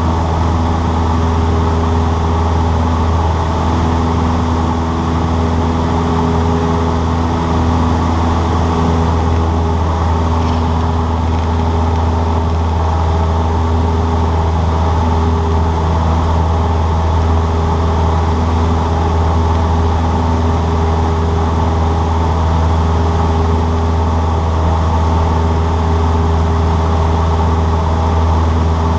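Cessna 152's four-cylinder Lycoming engine and propeller running at a steady, unchanging drone.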